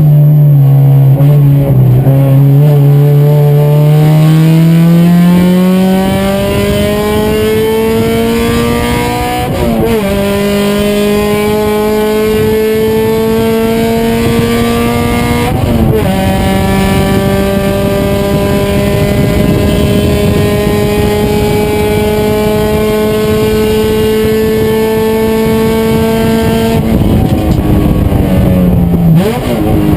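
Race car engine under full throttle, revs climbing through the gears, with two upshifts about ten and sixteen seconds in. The engine then holds a steady high note until near the end, when the revs fall and blip through downshifts.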